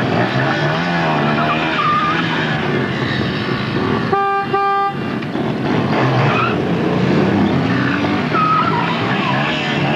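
Soviet-made motorcycle engines revving and running, their pitch rising and falling, with two short horn beeps about four seconds in.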